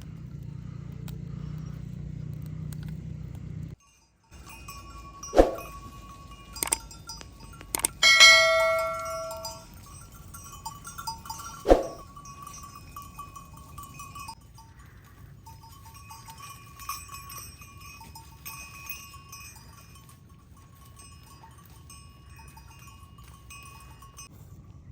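Metal bells ringing: sharp clanks, one loud ringing strike about eight seconds in that dies away over a second or so, then fainter tinkling for the rest.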